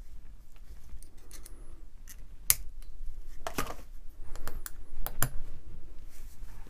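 Parts of an AEG BH25 rotary hammer clicking and clinking as they are handled and fitted together during reassembly, with a few sharper clacks about two and a half, three and a half and five seconds in.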